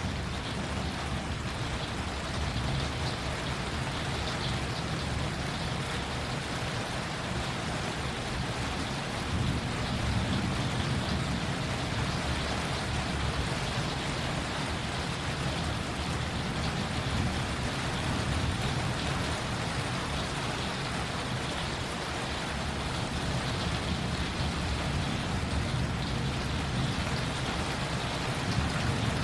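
Steady rain falling, with a continuous low rumble beneath it.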